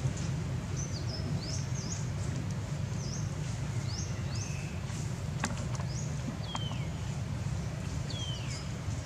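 Small birds chirping, with many short high notes and two longer falling calls near the end, over a steady low rumble. A single sharp click sounds about halfway through.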